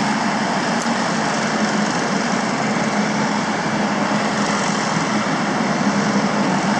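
Steady engine and traffic noise with a constant low hum.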